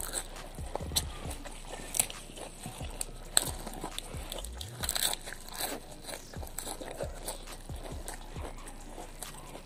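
Close-up crunching and chewing of raw lettuce leaves, eaten by hand with rice and sambal, in a rapid, irregular run of crisp bites.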